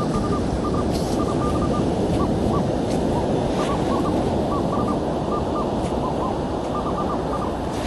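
Metal detector beeping in short, same-pitched tones at irregular spacing as it sounds off on a target, over a steady noise of wind and surf.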